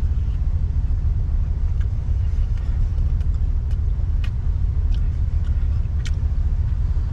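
Steady low rumble of a vehicle on the move, heard from inside the cab, with a few light clicks scattered through it.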